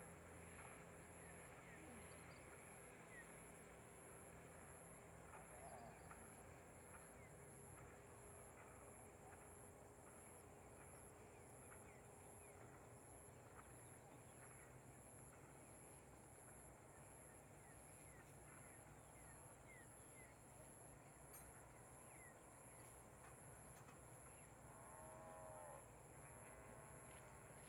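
Very quiet outdoor background with a faint steady low hum. Near the end an animal calls twice, briefly, in the manner of cattle lowing.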